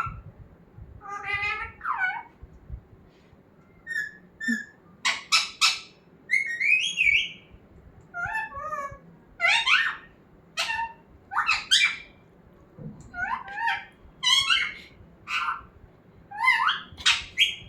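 Pet parrot giving a run of short, shrill calls and squawks with brief gaps between them, some sliding up or down in pitch.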